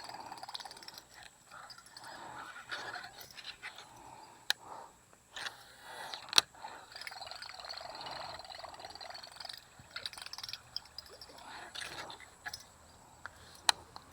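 Frogs and insects calling in a steady chorus, broken by a few sharp clicks, the loudest about six seconds in and another near the end.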